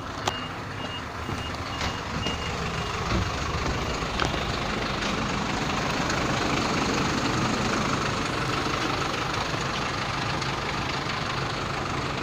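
Volkswagen 17-230 OD bus's four-cylinder diesel engine running and being revved, growing louder about three seconds in and then holding steady. A repeating electronic beep sounds over it for the first couple of seconds.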